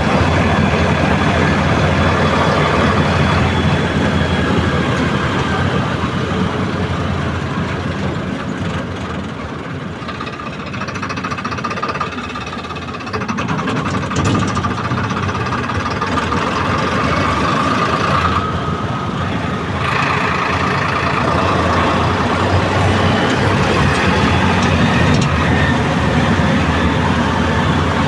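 Tractor engine running steadily. It eases off about eight seconds in and picks up again about thirteen seconds in.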